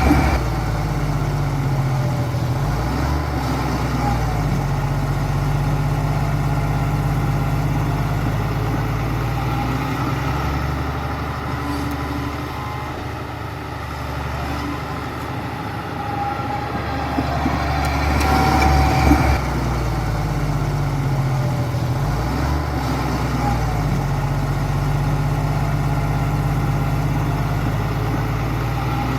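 Heavy diesel engine of earthmoving construction machinery running, its engine note shifting under changing load a few times, louder about two-thirds of the way through.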